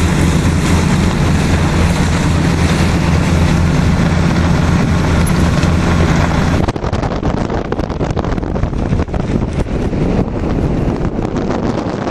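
A sailboat's engine runs with a steady low hum under wind noise. About seven seconds in it cuts off suddenly, leaving strong wind buffeting the microphone.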